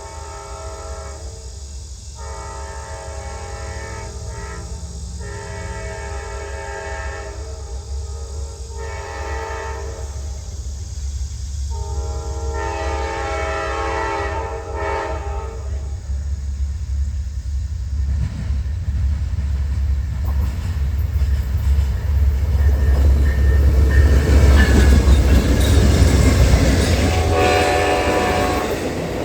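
Diesel locomotive's multi-note horn sounding a series of blasts, mostly long with one short one, as the train approaches. The low engine rumble grows steadily louder and the train passes close by, with wheels clattering over the rails near the end.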